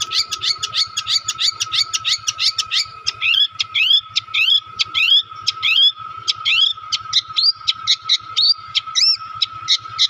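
Songbird singing a fast, unbroken run of sharp chirps, about four to five a second, many of them sweeping upward, over a steady high-pitched tone.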